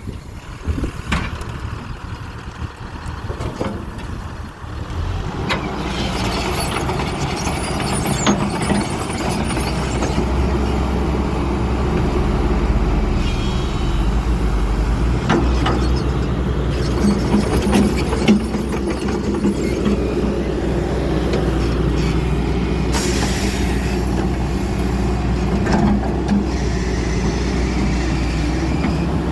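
Heavy diesel engine of an XCMG 140 excavator, a Cummins, running under load: a steady low drone that comes up about five seconds in and then holds, with occasional knocks.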